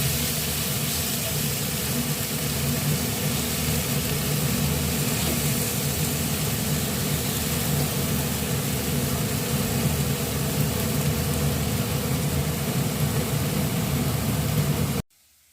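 Steady motor hum with an even hiss over it, cutting off abruptly near the end.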